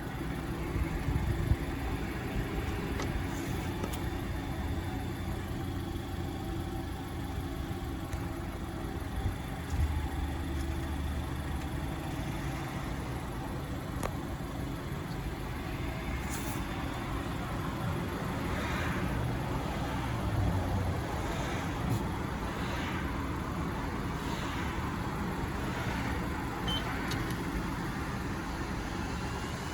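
A car engine idling steadily, with a few faint clicks.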